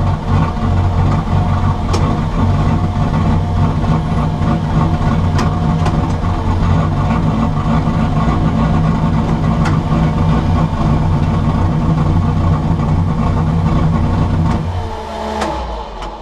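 Turbocharged carbureted car engine with a rear-mounted turbo, run under boost at about 14–15 psi in a few short throttle stabs, a little rich on tip-in. Near the end the engine note drops away, with a falling whine.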